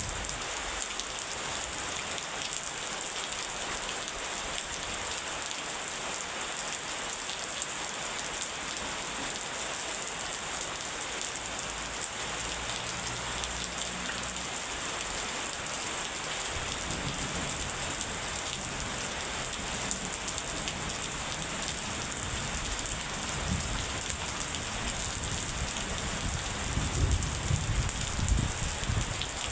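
Steady rain falling in an even hiss, with low rumbling thunder coming in about halfway through and swelling near the end.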